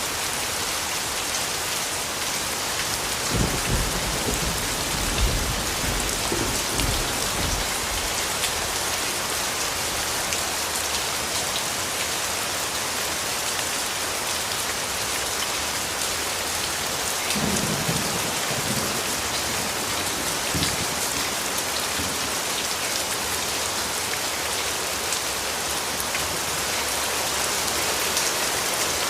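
Steady rain falling, with low thunder rumbling twice: once a few seconds in for about four seconds, and again briefly a little past the middle.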